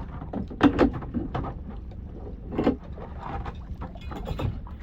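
Small fishing boat on the water: a steady low rumble with scattered knocks and clicks, the loudest pair about two thirds of a second in and another near the middle.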